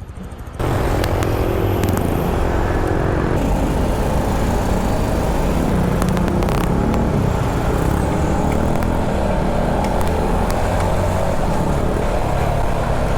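Motorcycle engine running under way with steady wind and road rush, starting abruptly about half a second in.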